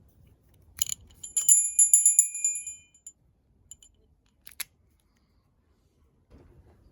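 Timber! mountain-bike bell on the handlebar: a click, then a bright ringing of rapid strikes for about a second and a half that fades away, then a couple of lighter clicks.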